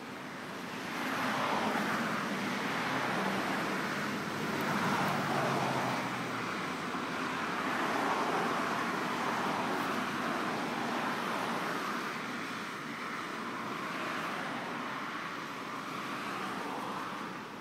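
Road traffic going past: a steady wash of tyre and engine noise that swells several times as vehicles pass and eases off near the end.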